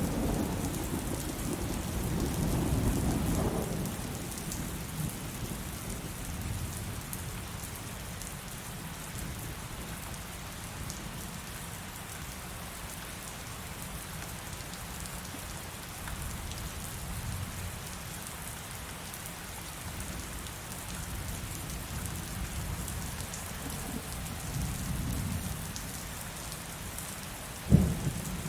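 Heavy rain falling with a steady hiss, under a thunderstorm. A low rolling rumble of thunder fills the first few seconds and returns softer later, and a sudden loud crack comes near the end.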